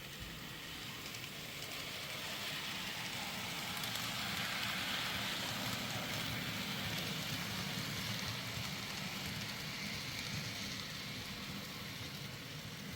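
Model coal train rolling past on the layout: a steady hiss and rumble of the wheels on the track and the locomotive motors, growing louder to a peak a few seconds in as it passes, then easing slightly.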